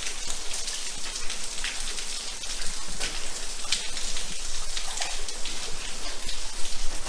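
Water dripping and trickling inside a wet, disused railway tunnel: a steady hiss with many scattered drips.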